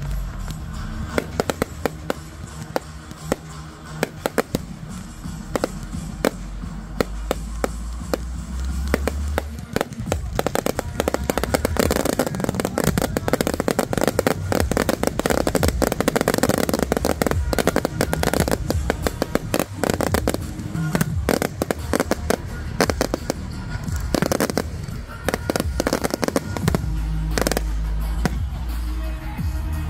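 Fireworks display: a rapid series of bangs and crackles from aerial shells, thickest through the middle stretch, over music with a steady bass line.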